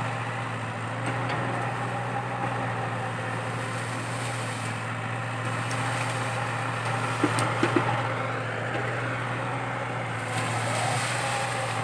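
Komatsu PC80 excavator engine running steadily while it digs out a eucalyptus stump, with a few sharp knocks about seven to eight seconds in.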